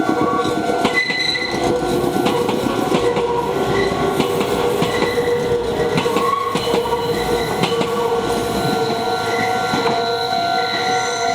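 Meitetsu 3500-series electric train passing over a level crossing, its wheels clacking over the rail joints throughout. The crossing's warning bell rings steadily behind it.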